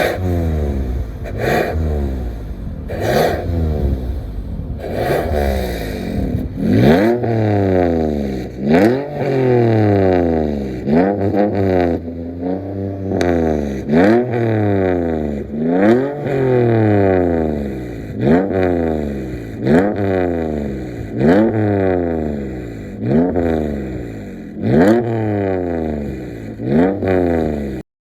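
Toyota Highlander engine heard through an aftermarket vacuum-valve muffler, revved again and again in place. There are short choppy blips at first; from about six seconds in come repeated rev-ups every couple of seconds, each rising sharply in pitch and falling back. The sound cuts off suddenly near the end.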